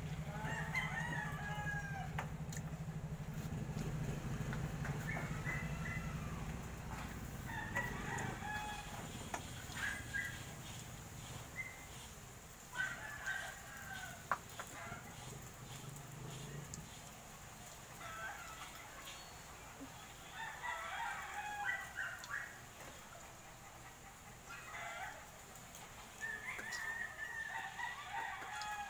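Birds calling in a series of short, pitched calls that come every few seconds, with a low steady hum under them that fades away about halfway through.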